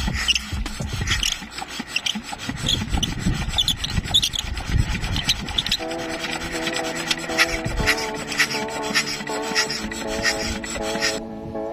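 Rough rubbing and scraping strokes by hand, uneven and repeated. A steady musical tone joins about halfway through.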